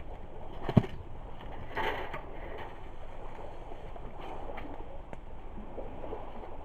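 Driftwood campfire crackling, with one sharp pop a little under a second in and a softer flare of crackle near two seconds, over a steady wash of lake water lapping at the shore.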